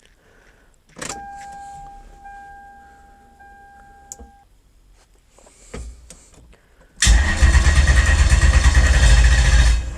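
A click as the key is switched on, then a steady electric whine for about three seconds. Near the end the starter cranks the Lexus 1UZ-FE V8 hard for about three seconds and stops suddenly, while the Megasquirt ECU is checked for an RPM signal.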